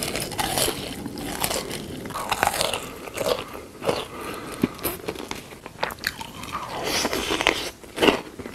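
Close-miked crunchy biting and chewing of food, an irregular run of crisp crunches.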